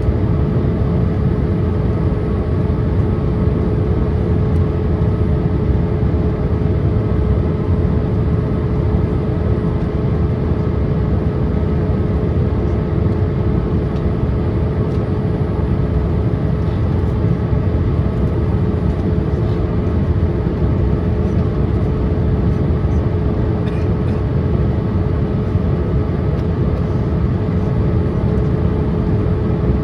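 Steady cabin noise of a Boeing 787-8 airliner in descent, heard from inside the cabin: an even, low roar of engine and airflow with a steady hum running through it.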